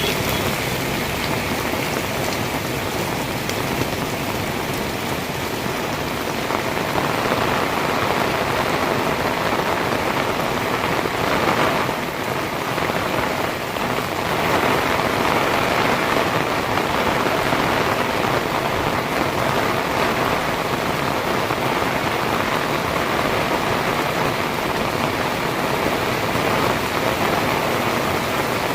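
Heavy rain pouring steadily, a dense even hiss of drops on hard surfaces, growing a little louder about seven seconds in.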